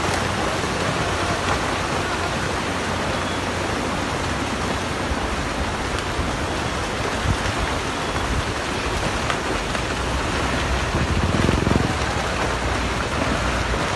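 Heavy rain falling steadily, with a low rumble that swells a little near the end.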